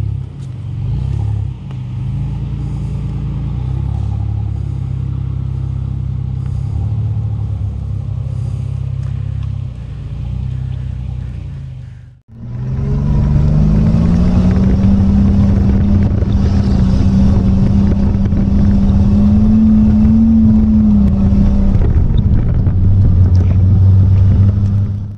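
Off-road 4x4 engines working under load on a steep dirt climb. The sound cuts out briefly about twelve seconds in, then a loud nearby engine comes back. Its note rises, holds steady for several seconds and drops near the end.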